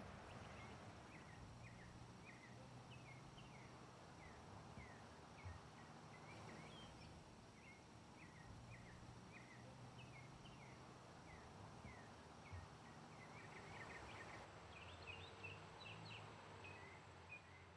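Faint outdoor ambience with small birds chirping: many short, quick notes, a little busier near the end, over a faint low hum.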